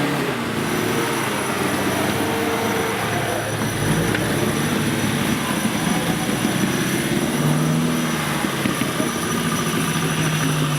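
Competition off-road vehicle's engine running under load, its pitch rising and falling as the driver works the throttle through the obstacle.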